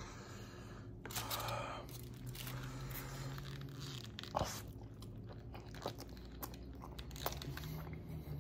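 A person biting into and chewing a burrito close to the microphone, with crunching; the loudest crunch comes about a second in and lasts under a second, followed by softer chewing and a few clicks.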